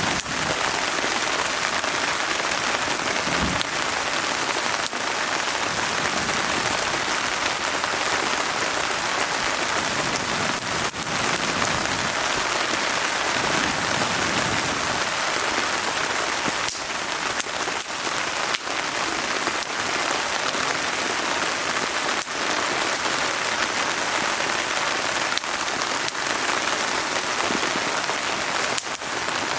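Steady rain falling, with a wood fire crackling in a fire pit and giving occasional sharp pops a few seconds apart.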